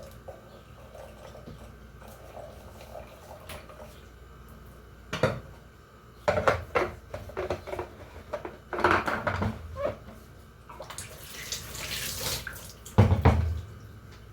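Dishes and pans clattering at a kitchen sink, with a short burst of running tap water and a heavier knock near the end.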